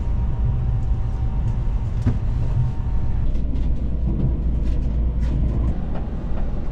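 Limited express train running: a steady low rumble, with a faint steady whine over the first three seconds and a few light clicks.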